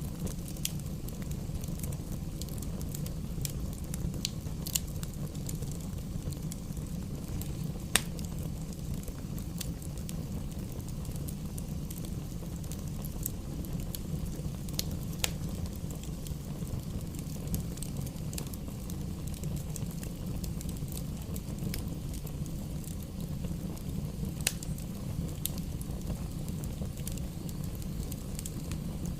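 Wood fire burning in a fireplace: a steady low rumble of flame with scattered sharp crackles and pops from the burning logs, one louder pop about eight seconds in.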